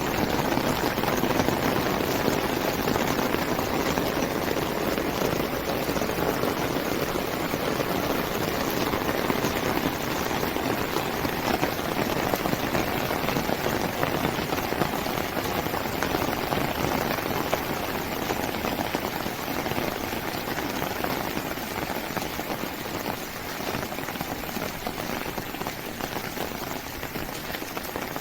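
Heavy rain falling steadily, an even hiss that eases slightly toward the end.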